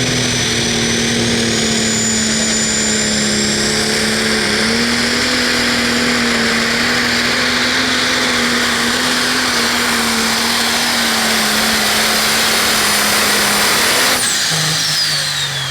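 Turbocharged diesel engine of a John Deere 6030 pro stock pulling tractor running flat out on a pull, a high turbo whistle rising in pitch over the engine. About fourteen seconds in, the throttle is cut and the turbo spools down in a falling whistle.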